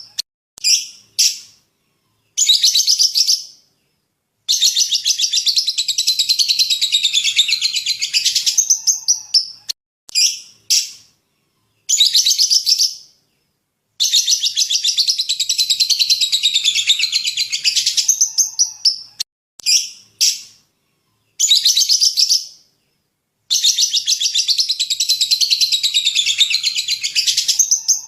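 A small songbird's high-pitched song, played as a looped masteran recording for training caged songbirds. The same phrase comes round three times: a few short chirps, a brief phrase, then a long, rapid trill lasting about four seconds.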